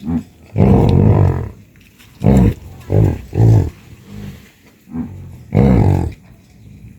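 Cattle calling again and again in low moos and grunts, about eight calls, two of them longer.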